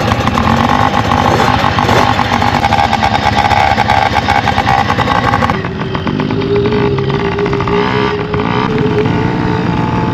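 Dirt bike engines running, with an abrupt change in the sound about five and a half seconds in.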